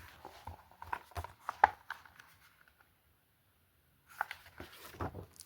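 Faint rustling and light ticks of a paperback picture book's pages being handled, with a near-silent stretch in the middle.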